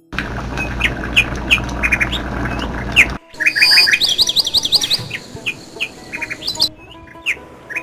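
Birds chirping and squawking, with short sharp chirps and quick runs of repeated notes. A low steady rumble lies under the first three seconds, and the sound cuts abruptly about three seconds in and again shortly before the end.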